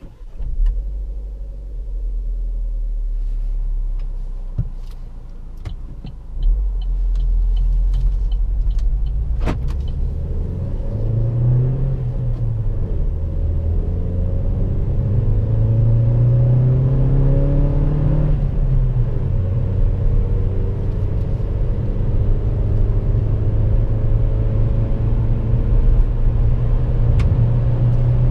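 Cabin sound of a 2017 Opel Mokka X's 1.4 Ecotec turbocharged four-cylinder petrol engine accelerating, with road rumble throughout. The engine note rises steadily and drops at a gear change about 18 seconds in. A run of light, evenly spaced ticks comes a few seconds in.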